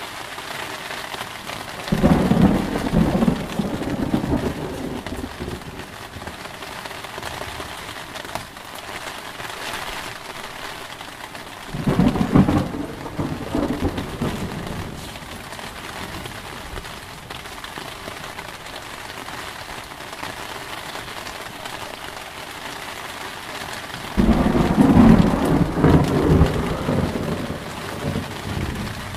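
Steady heavy rain, with three rolls of thunder that each start suddenly and rumble on for a few seconds: one about two seconds in, one near the middle, and one near the end.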